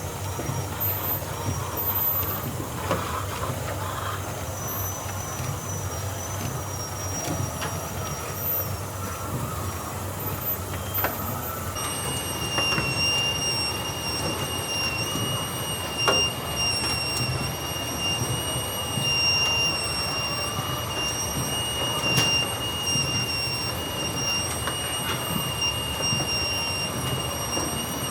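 Steady mechanical rumble of machinery running, with a thin high-pitched whine that sets in abruptly about twelve seconds in and holds steady, and a few sharp clicks.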